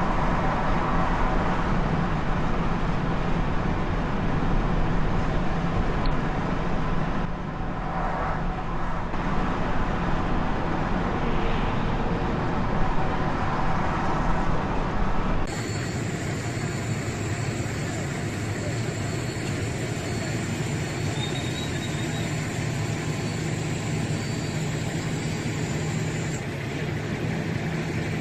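Steady road and engine noise of a car driving, with a low hum under it; the sound changes character abruptly about halfway through.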